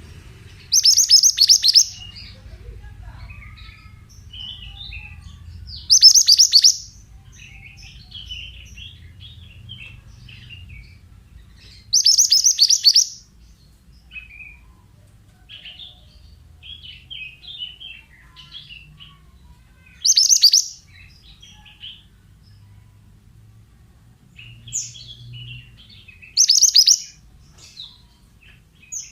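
Pied bushchat song: a loud, high, rapid phrase about a second long, repeated five times roughly every six seconds, with softer scattered chirps in between. A faint low hum runs underneath.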